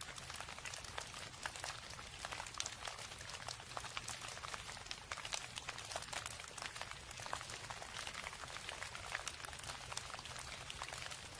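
Steady rain: a dense, even patter of many drops, with a low steady rumble underneath.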